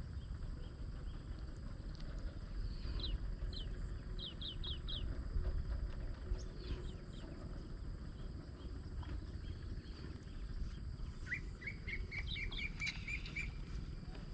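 Small birds chirping: brief runs of short high notes, then near the end a quick run of about ten chirps, over a steady low rumble.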